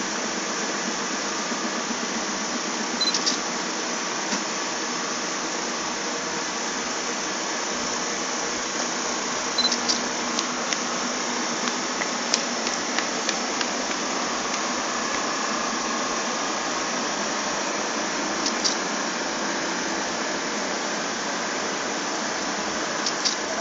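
Steady engine and vehicle noise with no change in pitch, and sharp clicks scattered through it, several close together in the middle.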